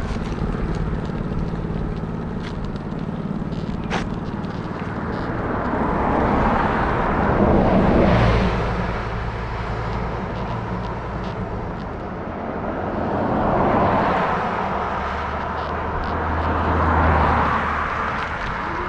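Road traffic passing: cars go by one after another, each rising and fading away, about a third of the way in, then again near two-thirds and near the end, over a steady low engine hum.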